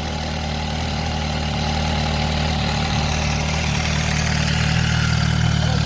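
MV Agusta Brutale 1000RR's inline-four engine idling steadily, just after start-up.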